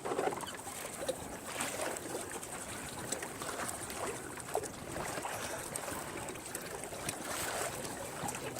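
Water lapping and splashing against a kayak's hull, with small irregular splashes and knocks throughout.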